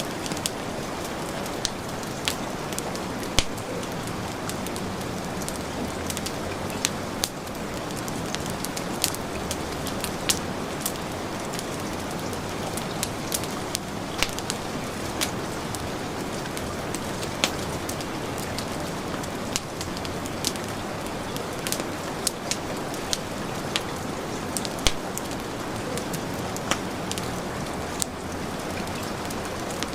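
Steady heavy rain with the irregular pops and crackles of a wood fire.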